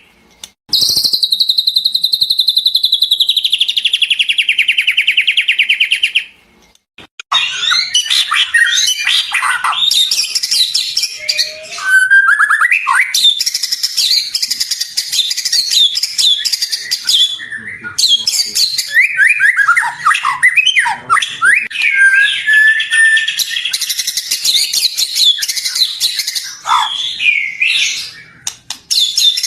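White-rumped shama singing. It opens with a rapid buzzing trill that slides slightly lower over about five seconds, then after a short break comes a dense, fast run of varied whistles and chattering phrases.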